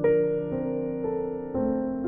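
Slow piano music for the end credits: single sustained notes struck about twice a second, each ringing on and fading under the next.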